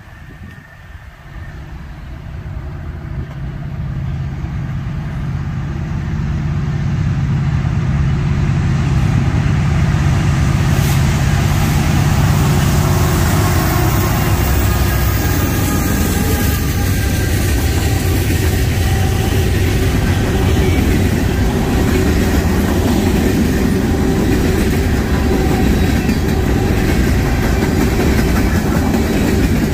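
A Norfolk Southern diesel freight train approaching and passing. The locomotives' engine hum grows steadily louder over the first several seconds, then gives way to the steady rumble of the freight cars rolling by.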